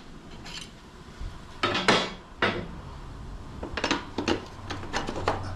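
Metal parts clinking and knocking in short irregular groups, the loudest about two seconds in, as the motorcycle's rear axle and wheel spacers are worked into line.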